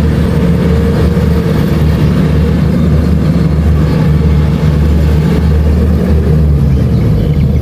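Kubota DC-70 Plus combine harvester running steadily while harvesting rice: a continuous loud diesel engine hum mixed with the noise of the threshing machinery.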